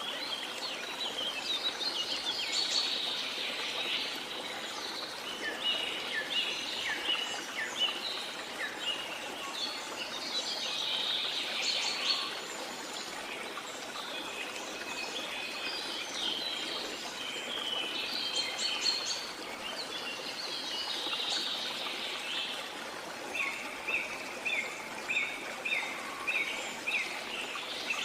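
Small songbirds chirping and singing over a steady wash of sea water. Near the end one bird gives a quick run of repeated chirps, about two a second.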